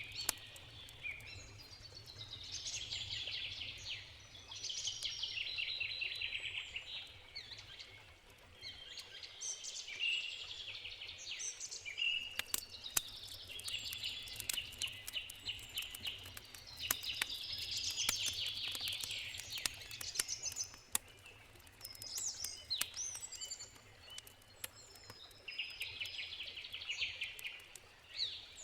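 Songbirds singing in repeated trilled phrases over a campfire's sharp, scattered crackles and pops.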